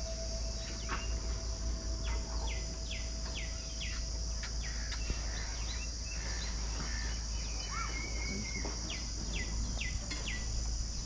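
Steady high-pitched drone of crickets or cicadas, with a bird calling two runs of about five short, quickly falling notes, one a couple of seconds in and one near the end. A low steady rumble runs underneath.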